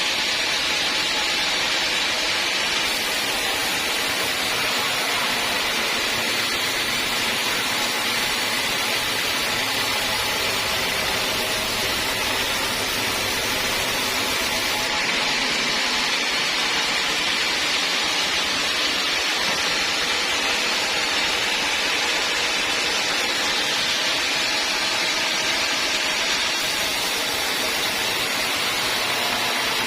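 Sawmill saw running with a steady, even noise and no breaks.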